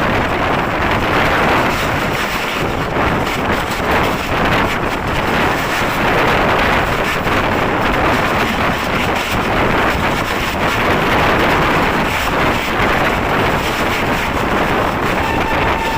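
Express passenger train passing through the station at speed: a loud, steady rumble and rush from its coaches running over the track, with wind buffeting the microphone. A faint steady tone comes in near the end.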